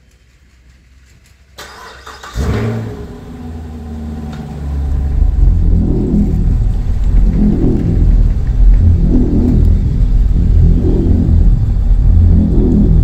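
Chevrolet Camaro's 6.2-litre, 455 hp V8 being started: it fires about two and a half seconds in with a loud start-up flare, then settles into a deep, loud idle that swells in a regular rhythm about every second and a half as the car creeps forward.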